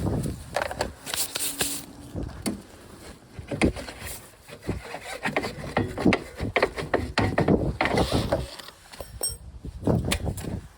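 Hand work on motorcycle parts: an uneven run of clicks, knocks and scraping from tools and parts being handled, loudest near the start, about four seconds in, and about ten seconds in.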